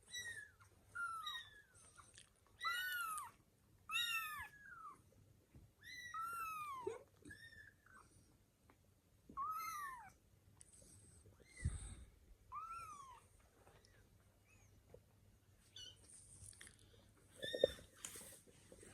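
Young kittens mewing over and over: short, high-pitched calls that rise and fall in pitch, coming in irregular clusters with short gaps between.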